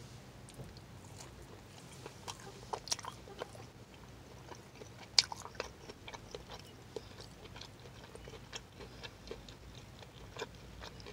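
A person biting into and chewing a buffalo-sauced crispy chicken tender: faint, irregular small crunches and mouth clicks, the sharpest about five seconds in. The breading is only slightly crisp, softened by the sauce.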